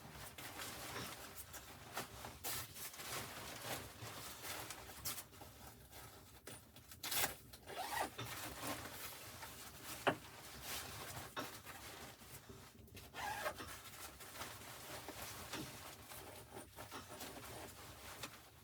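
Irregular rustling and scraping of things being handled, with a few sharp clicks, the loudest about ten seconds in.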